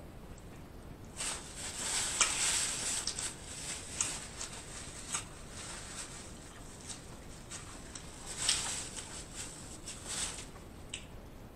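Close-miked eating sounds: chewing with wet mouth clicks and smacks, and two spells of soft rustling hiss, one about a second in and one near the end.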